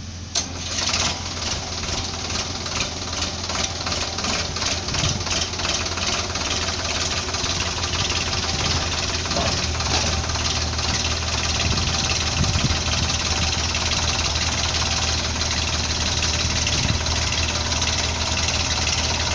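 Heavy diesel engine revving up about half a second in and then running hard and steadily, with a rhythmic clatter.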